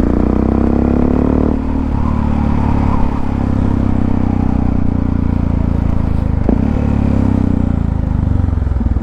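Motorcycle engine running under way, heard from the rider's helmet microphone. The note drops about a second and a half in, and near the end it breaks into rapid off-throttle popping from the exhaust.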